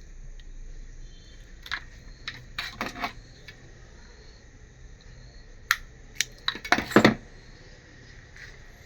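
Small hard objects clicking and clattering in two clusters, a few knocks about two to three seconds in and a louder run of clicks about six to seven seconds in.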